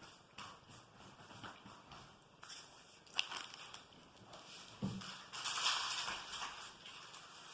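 Chocolate-hazelnut wafer being chewed: scattered crisp crunches, with a sharp crack about three seconds in and a denser run of crunching from about five and a half seconds.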